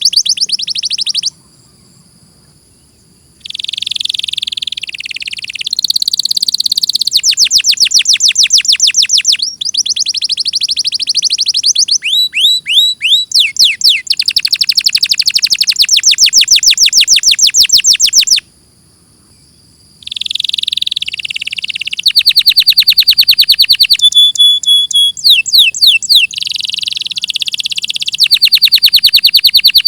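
Domestic canary singing in long phrases of fast trills and rapidly repeated high notes. It breaks off briefly twice, about a second in and again after about 18 seconds.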